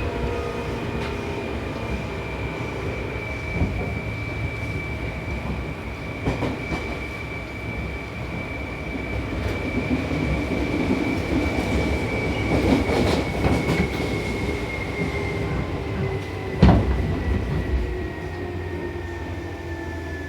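Onboard running sound of a Seibu New 2000 series electric train between stations: a steady traction-motor whine slowly falling in pitch over wheel and track rumble, with scattered clicks over rail joints and one sharp knock about three-quarters of the way through.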